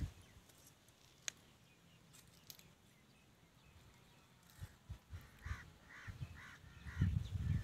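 Near-quiet background with a bird calling five times in quick succession, starting about five seconds in. There is a single sharp click early on and low bumps of movement near the end.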